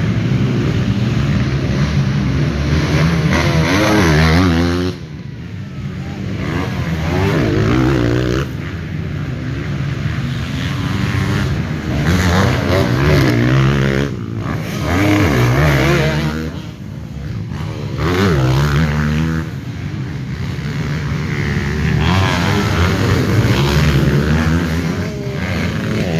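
Off-road trail motorcycle engines revving, the pitch climbing and falling again and again as the throttle is worked.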